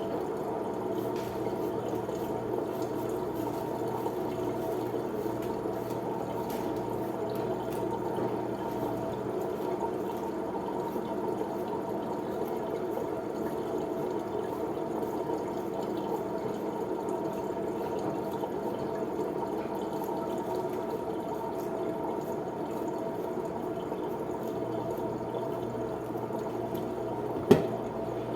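Water running steadily from a kitchen tap into a sink or pot, with one sharp knock about a second before the end.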